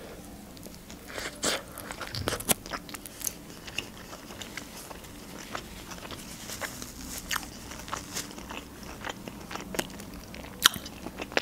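Close-up eating sounds: a bite into a hot dog in a soft bun, then chewing with many small mouth clicks and crackles, and one sharper click near the end.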